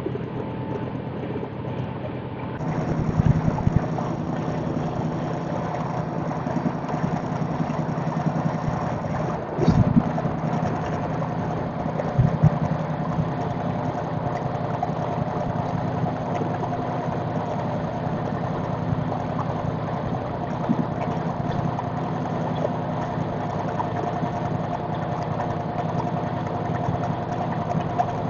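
Passenger train's steady hum and rumble, with a few louder knocks about three, ten and twelve seconds in.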